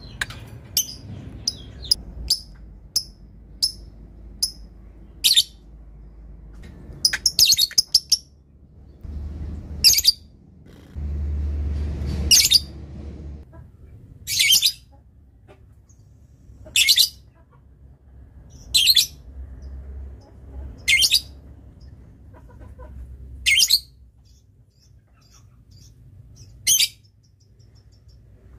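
Lovebird giving a quick run of sharp, ticking chirps, then single loud, shrill chirping bursts about every two seconds.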